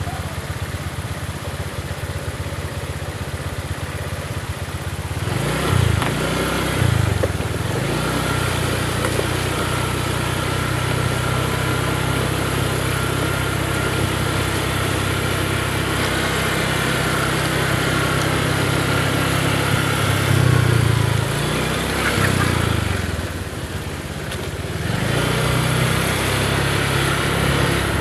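Small motorcycle engine running, revving up and easing off twice.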